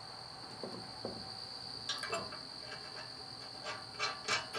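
Light clicks and taps of bolt hardware being handled as a large washer and nut go onto a carriage bolt: a couple about two seconds in and a cluster near the end. Under them runs a steady high-pitched trill.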